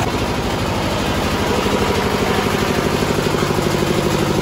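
An engine idling, a steady drone with a fast even pulse.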